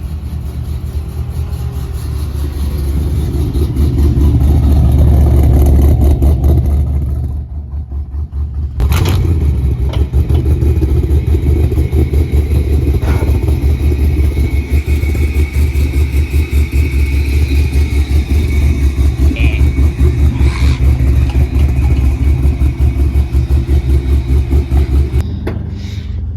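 Holden Commodore VE SS V8 engine running loudly with an even, fast pulsing beat. It swells a few seconds in, dips briefly around eight seconds in, and after a sharp click picks back up and runs steadily.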